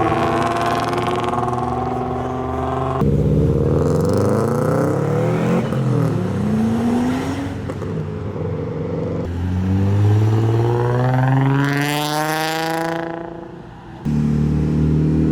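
Modified cars' engines accelerating away one after another, in several short takes. Near the end one car revs hard past, its engine pitch climbing steeply before it cuts off.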